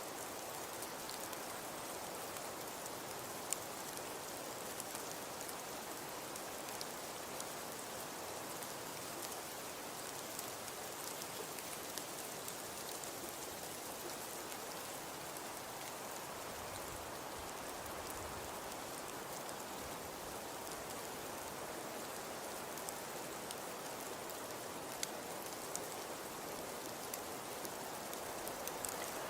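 Fireplace fire crackling: a steady hiss with a few sharp pops.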